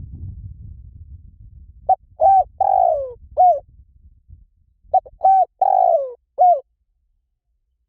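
Spotted dove cooing: two four-note phrases about three seconds apart, each a short coo, a rising-falling coo, a longer coo falling in pitch, and a short final coo. A low rumble runs under the first second or so.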